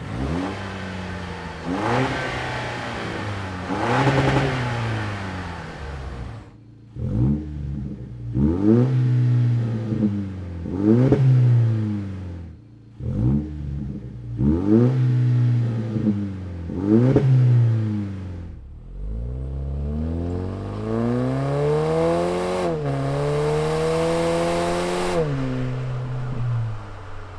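Toyota Tacoma's turbocharged four-cylinder engine breathing through an AWE 0FG single side-exit exhaust: about six quick revs roughly two seconds apart, then a longer climb in revs that dips briefly and climbs again before falling away. The exhaust note is deep and loud with no drone.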